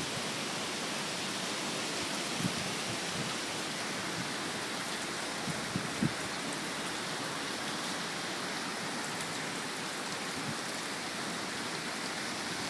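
Hurricane Irene's strong wind blowing steadily, a continuous hiss much like heavy rain, with a few brief low thumps.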